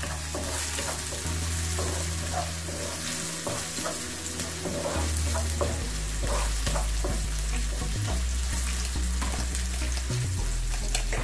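Spring onions and green chillies sizzling in hot oil in a frying pan, stirred with a wooden spatula that scrapes and taps against the pan in short, irregular strokes.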